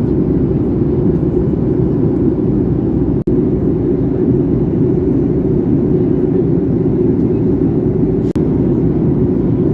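Steady low rumble of a Boeing 737 MAX 8's cabin in flight, engine and airflow noise, broken twice by momentary gaps.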